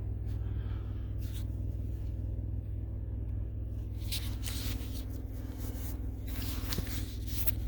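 Semi-truck's diesel engine idling with a steady low hum. Rustling handling noises come twice in the second half.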